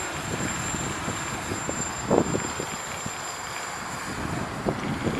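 Strong wind buffeting the microphone in uneven gusts, with the loudest surge about two seconds in, over a steady high-pitched whine.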